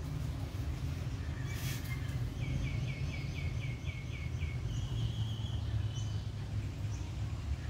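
A bird calling in the background: a quick run of about nine short chirps, then one brief held note, over a steady low rumble of outdoor noise.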